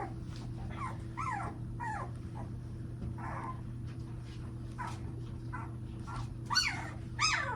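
Two-week-old American Bully puppies whining and yelping over and over in short, high calls, with a couple of louder yelps near the end, over a steady low hum.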